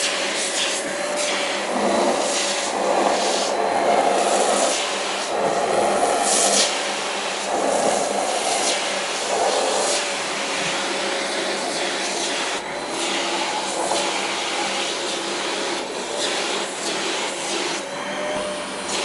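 Vacuum cleaner running with a steady motor whine, its sound swelling and changing several times in the first half as the nozzle is drawn over a cat's fur.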